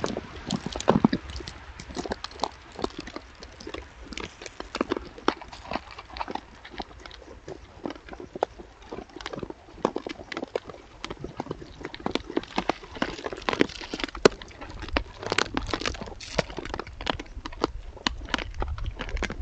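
A continuous run of sharp, irregular clicks and knocks, several a second, over a steady low rumble.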